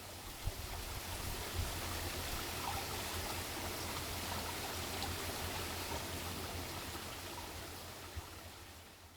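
Steady rush of flowing water, like a stream, with a low rumble underneath; it swells in at the start and fades out near the end.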